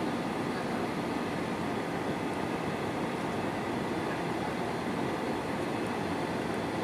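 Steady cabin noise of an Airbus A320-214: its CFM56-5B engines running and the rush of air, even and unchanging throughout.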